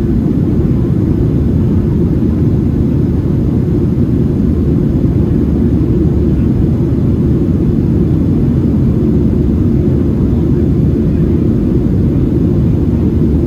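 Cabin noise inside a Boeing 737-700: a steady low roar from its CFM56-7B jet engines and airflow, heard at a window seat, with no change in level.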